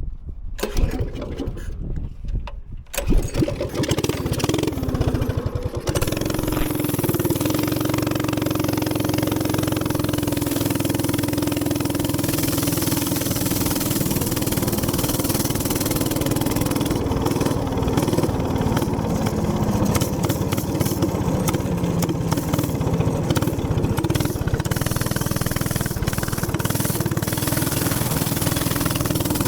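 Minibike's small gas engine starting: a few uneven sounds, then it catches about three seconds in and runs steadily, pitch shifting a little as the bike is ridden, with wind noise on the microphone from a few seconds later.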